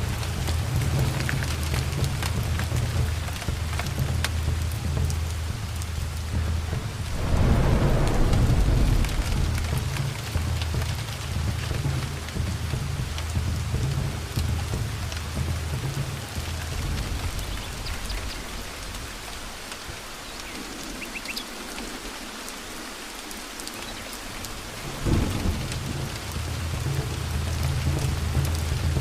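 Steady rain falling, under a low rumble of rolling thunder. A loud thunderclap comes about seven seconds in, and a shorter one near the end.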